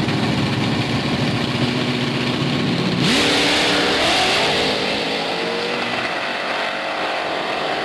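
Drag car's engine held at steady revs on the starting line, then launching about three seconds in: a sudden loud surge, with the engine note climbing as the car pulls away down the strip.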